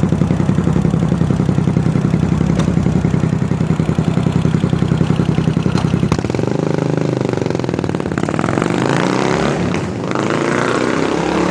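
Yamaha SR400 single-cylinder four-stroke engine through a slip-on megaphone exhaust, idling with an even, pulsing beat. About six seconds in the note changes and the revs rise, dip briefly, then rise again near the end.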